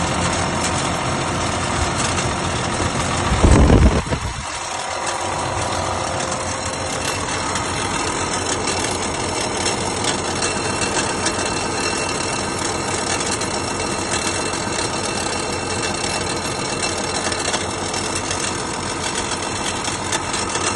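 Rostselmash RSM 2375 tractor's diesel engine running with a knock in it, traced to a loose retaining ring rubbing against the flywheel. A brief loud low rumble comes about three and a half seconds in.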